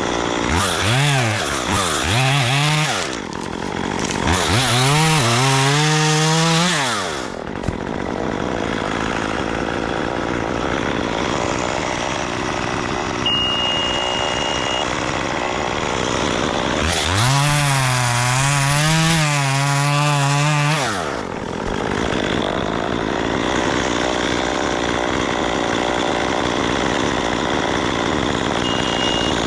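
Chainsaw revved to full throttle in three spells of a few seconds each, about a second in, at about five seconds, and again from about seventeen to twenty-one seconds. Each time the pitch climbs, holds high with a slight wobble, and drops back. A steady engine noise carries on between the spells.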